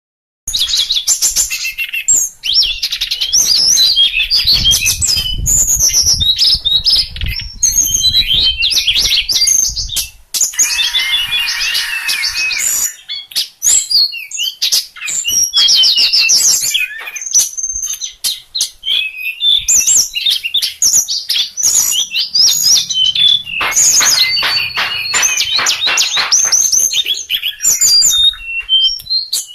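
A songbird of the kind Indonesian bird-keepers call sulingan, singing a continuous, rapid and varied run of high chirps, whistles and trills.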